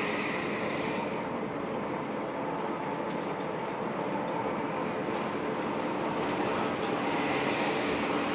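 Intercity bus running at speed: a steady engine drone and road rumble with a faint even hum, holding level throughout.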